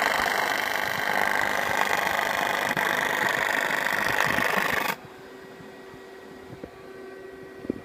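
AC TIG welding arc on aluminium buzzing and crackling steadily, then cut off abruptly about five seconds in. A fainter steady hum remains, with a few small clicks near the end.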